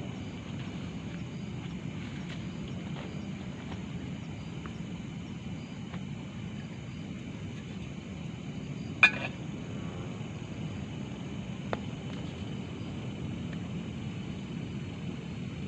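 Forest ambience at night: a steady insect drone over a low rumble, with one sharp click about nine seconds in and a fainter one near the twelve-second mark.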